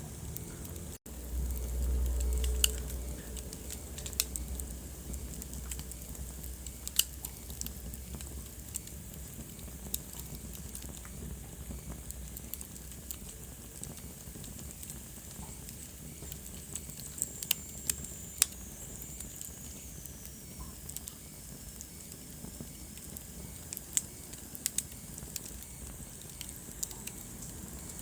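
Wood fire burning in a fireplace: a steady hiss with sharp, irregular crackles and pops. A brief low rumble comes about two seconds in, and a faint high whistle slides downward around the middle.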